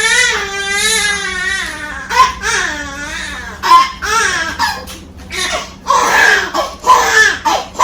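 A baby crying: a run of high cries that waver in pitch, broken by short breaths.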